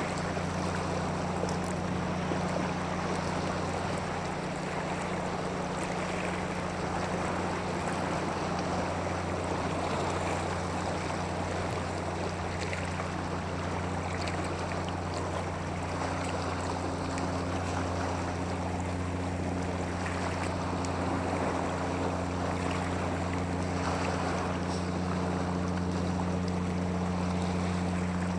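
Steady rushing water with a low, even hum running underneath.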